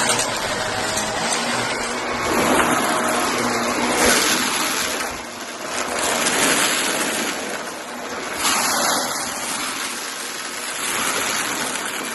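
Shark vacuum cleaner running while picking up cardboard debris, its steady rushing noise swelling and easing every second or two.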